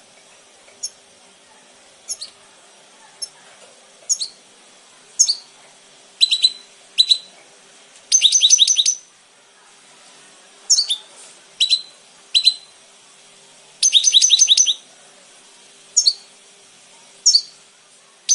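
European goldfinch singing: single sharp high chirps spaced a second or so apart, broken up by quick rattling trills of rapid notes, each about a second long, at about 8 seconds, at about 14 seconds and again at the end.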